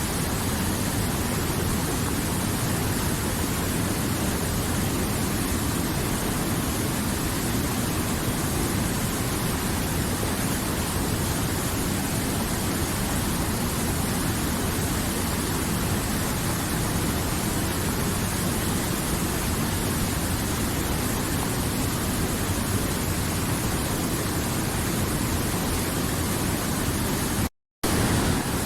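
River water flowing, a steady, even rush with no pauses. Near the end the sound cuts out for a split second, then carries on unchanged.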